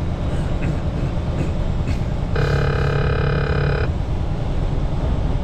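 Steady road and engine rumble inside a semi-truck cab on the move, with a single horn blast of about a second and a half near the middle.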